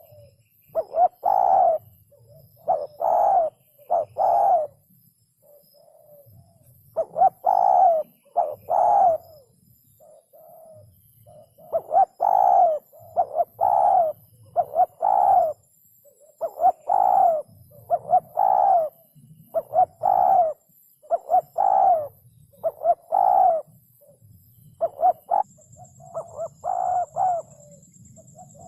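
Spotted dove cooing over and over in phrases of several low, hollow coo notes, with a couple of brief pauses between phrases.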